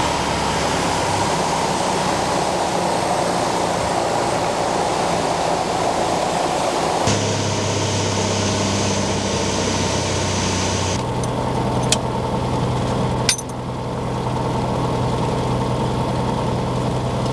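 An engine running steadily, its pitch and tone shifting abruptly about seven and eleven seconds in, with a couple of brief clicks near the end.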